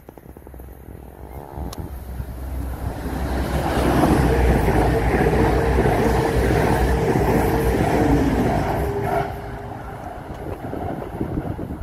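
Class 222 Meridian diesel multiple unit passing along the platform: a rush of wheels on rail and underfloor diesel engines that builds for about four seconds, holds loud with a steady whine, then drops off sharply about nine seconds in as the rear cab goes by.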